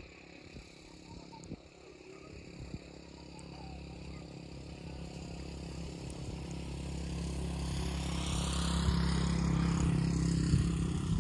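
Motorcycle engine running at a steady pitch with road and wind noise, growing steadily louder over several seconds.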